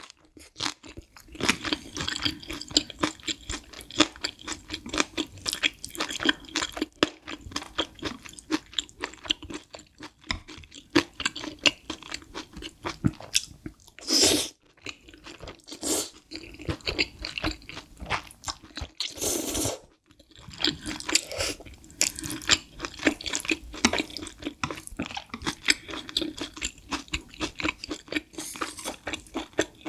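Close-miked chewing of Buldak spicy stir-fried noodles, a fast run of wet clicks, broken by a loud slurp of noodles about midway and a longer slurp a few seconds later.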